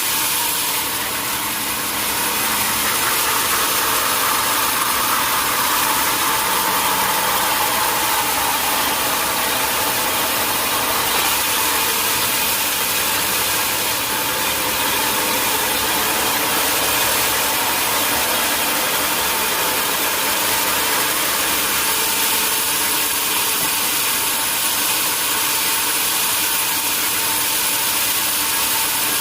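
Sawmill machinery running steadily with a continuous mechanical hiss and hum. The pitch shifts a little during the first several seconds.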